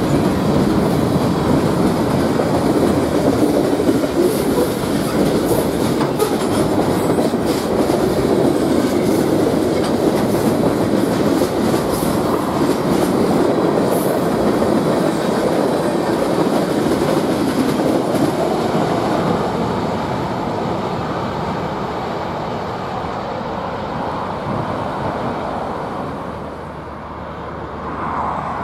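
Loaded freight cars rolling past at close range: a steady rumble of steel wheels on rail with sharp wheel clacks over the joints. The sound eases off over the last third as the cars pull away.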